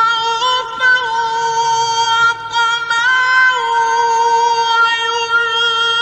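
A male Quran reciter holds one long, high note in melodic tajweed recitation, unbroken by a breath, with a few small ornamental turns in pitch.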